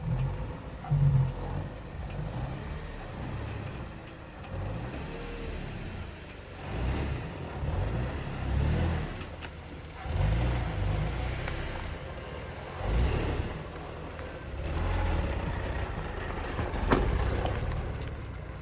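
Vehicle engine running with a low rumble that rises and falls in repeated swells as it drives, with one sharp knock near the end.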